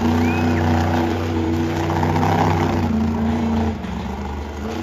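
Monster truck engine running and revving at high volume, its pitch rising and falling slightly, easing off briefly near the end.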